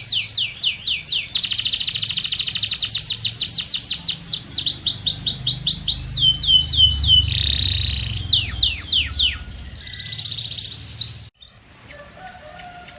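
Domestic canary singing in rolling runs of quick, high, falling whistled notes, with a very fast trill from about a second in. The song cuts off suddenly about eleven seconds in, leaving only faint chirps.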